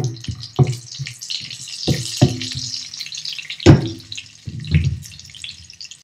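Cashews and raisins sizzling in hot ghee in a frying pan, with a spatula knocking and scraping against the pan about six times, loudest a little after halfway. The sizzle fades near the end.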